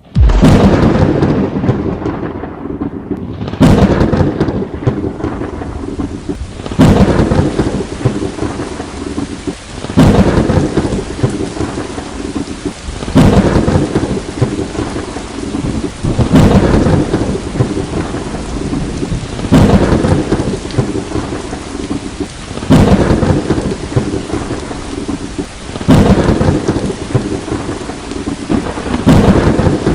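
Thunderstorm: steady heavy rain with a sharp thunder crack and a fading rumble about every three seconds. The claps come at very even spacing, like one thunder clap looped over and over.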